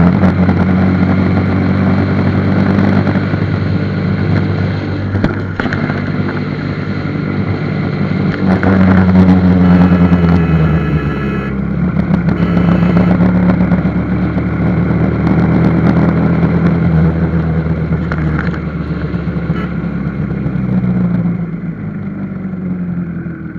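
Motorcycle engine running on the move, its pitch shifting up and down as the speed changes, getting quieter near the end.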